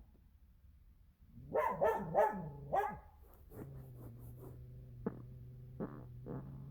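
A dog barking four times in quick succession. After that comes a steady low hum, broken by a few sharp clicks.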